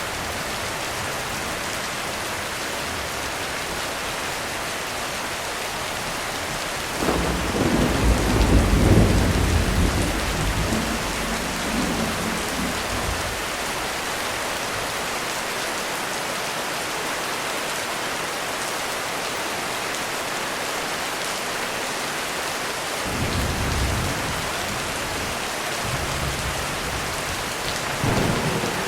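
Heavy rain falling steadily in a thunderstorm. A deep roll of thunder swells about seven seconds in and fades over several seconds, and fainter rumbles follow near the end.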